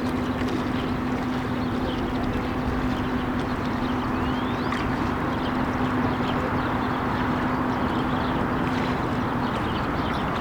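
Motor ship arriving, its steady low hum over a broad rushing noise, with a few short high chirps; the hum stops near the end.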